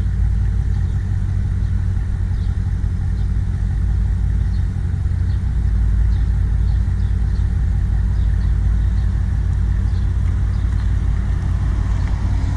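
Steady low engine and road rumble of a car moving slowly, heard from inside the vehicle.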